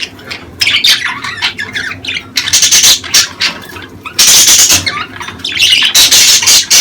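Budgerigars chattering and squawking: a dense run of harsh, scratchy calls that come in louder spells with softer chatter between. This is the chatter played to stimulate budgies to breed.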